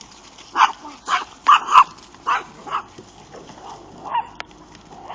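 Dog barking in a series of short, sharp yips, about half a second apart for the first three seconds, then once more about four seconds in, after a sharp click at the very start.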